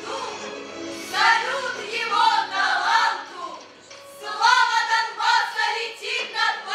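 A choir singing a song with musical backing, phrases breaking off briefly about four seconds in.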